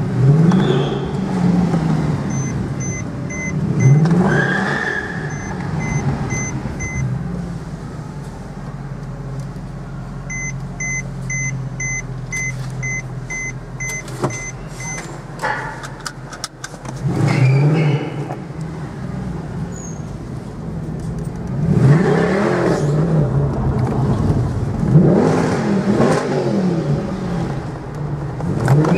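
Mercedes-Benz C63 AMG 507's 6.2-litre V8 heard from inside the cabin, revving hard in several rising and falling bursts with a steadier, quieter cruising stretch in the middle. A thin beep repeats about twice a second for a few seconds, twice.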